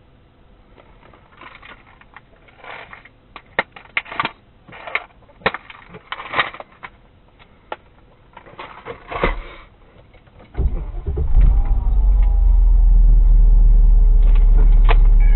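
Clicks, knocks and rustling of handling inside the cabin, then about ten seconds in the Range Rover P38A's engine starts and settles into a steady idle.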